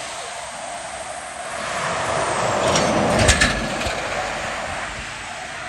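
A heavy truck driving past, its road and engine noise swelling to a peak about three seconds in, with a brief rattle as it goes by, then fading.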